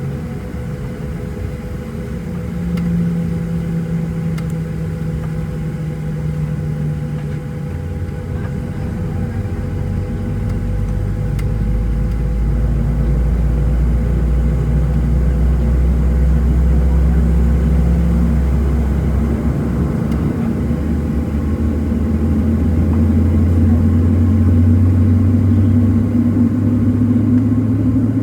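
Cabin noise of a Boeing 737-700 heard from a window seat: its CFM56-7B jet engines hum steadily, with a few steady tones. A deep rumble swells from about a third of the way in and the sound grows gradually louder.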